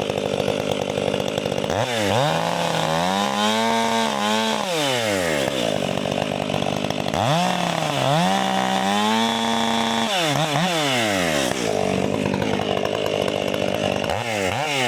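Two-stroke chainsaw running at full throttle and cutting through wood twice, its engine note rising and holding high during each cut and dropping back as the throttle is let off between them.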